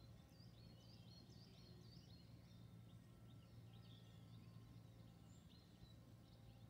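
Near silence with faint birdsong: many short, high chirps from small birds throughout, over a low steady hum.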